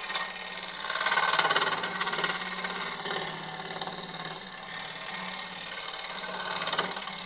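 Laguna Revo 1836 woodturning lathe running with a steady hum while a bowl gouge cuts the outside of a spinning cherry bowl blank; the cutting gets louder about a second in for a couple of seconds.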